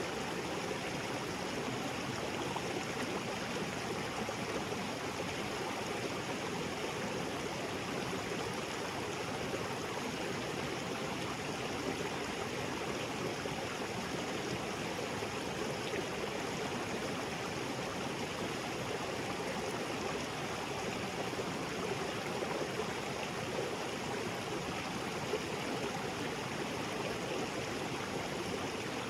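Small waterfall spilling into a rocky jungle creek: a steady rush and splash of water that doesn't change.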